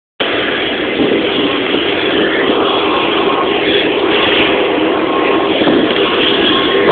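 Airplane engines running, a loud, steady hum heard from inside the cabin.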